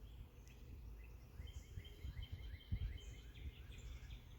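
A bird calling in a quick series of short, downward-sliding chirps, about four a second, starting about a second and a half in. Under it is a low rumble of wind on the microphone with a few soft bumps.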